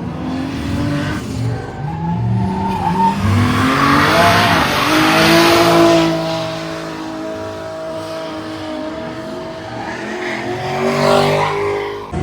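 Drift car's engine revving hard, its pitch climbing and falling as the throttle is worked, with tyres squealing and hissing through a slide that is loudest about halfway through. The engine settles lower, then climbs once more near the end.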